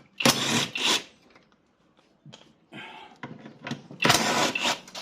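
A power tool, most likely the one just shown, running in two short bursts, one about a second in and one near the end, with lighter clanks of tools and metal between them as the rear shock mounting is worked loose.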